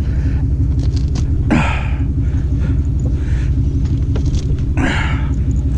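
An engine idling with a steady low rumble, and a few light clanks and knocks over it.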